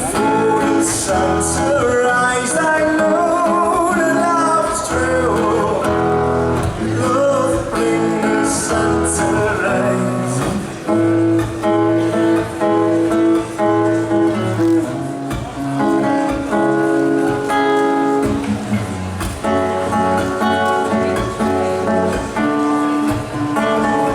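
Live acoustic rock: acoustic guitars playing an instrumental passage of strummed and picked chords, with a wavering melody line over them in the first half.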